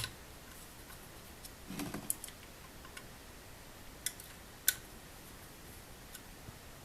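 Scattered faint clicks of a screwdriver and small screws being tightened on a graphics card's heatsink, with one sharper click a little before five seconds in.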